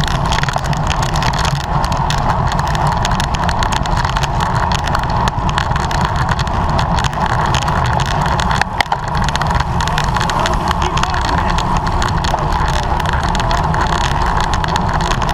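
Steady wind and road noise of a bicycle racing at speed, the wind buffeting the microphone in a constant low rumble, with a brief dip about nine seconds in.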